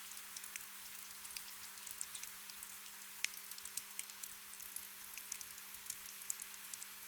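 Gentle rain: a soft, steady hiss with many scattered drops ticking irregularly, over a faint steady hum.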